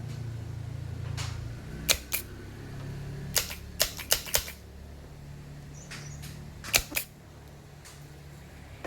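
Sharp clicks and taps over a steady low hum: a pair about two seconds in, a quick cluster of four around the middle, and another pair near the end.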